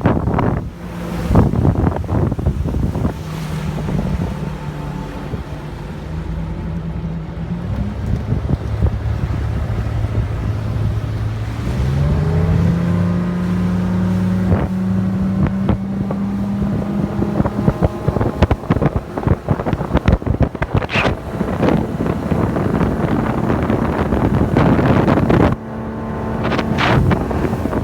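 Motorboat engine running, its pitch rising about twelve seconds in and then holding steady at the higher speed, with wind buffeting the microphone.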